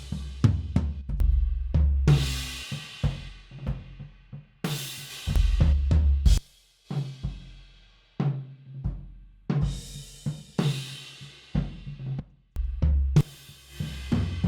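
Sampled acoustic drum kit played with mallets, looping a busy beat of kick, snare and toms with a cymbal swell every few seconds. It is heard through the room microphones, so the low drums ring on after each hit.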